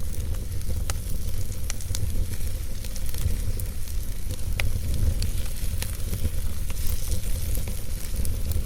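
Wood fire burning in a fireplace: a steady low rumble and hiss of the flames with irregular sharp crackles and pops.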